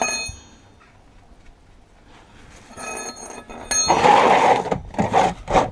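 Metal tool clinks with a short ring, from the spanner and sump drain plug being worked. After a quiet gap come more clinks, then a louder, rough, fluttering noise about four seconds in.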